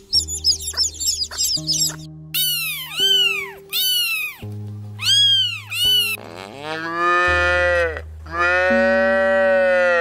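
Baby chicks peeping rapidly, then a kitten mewing in a run of short high calls, then a cow mooing in two long calls. Background music plays under the animals.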